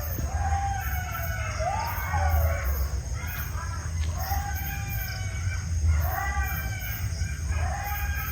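A chorus of animal calls: repeated wailing cries, each rising and then falling over about a second, several voices overlapping.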